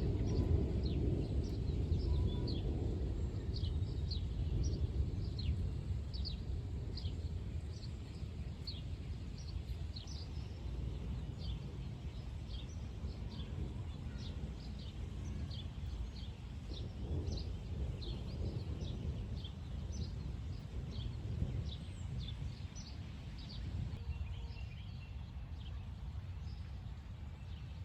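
Rumble of distant thunder dying away into a low steady rumble, while a bird calls over and over with short falling chirps, about two a second; the thunder begins to build again at the very end.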